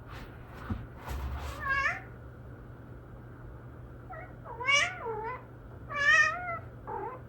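A cat meowing several times, short rising-and-falling meows, the loudest about five and six seconds in.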